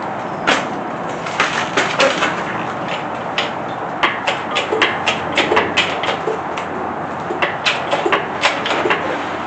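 Irregular clicks and knocks of engine-stand mounting hardware being handled and fitted to a small-block Chevy 350 block, over a steady background hiss.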